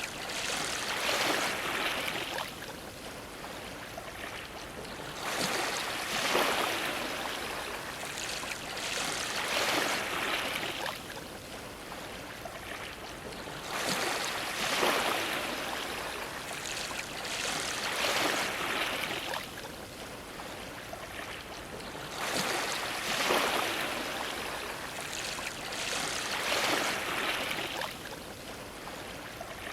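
Ocean waves washing and splashing against a dock, each wave a swelling hiss that surges and ebbs every few seconds.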